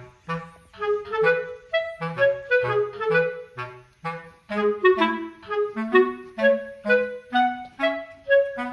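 Background music: a bouncy, playful tune with a clarinet-like woodwind melody in short notes over a plucked bass line.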